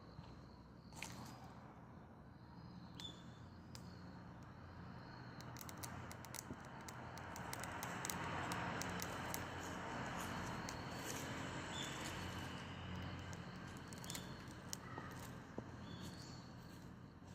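Dry perilla twigs burning in a Solo Stove: a hiss of flame that swells in the middle, with many sharp crackles and pops.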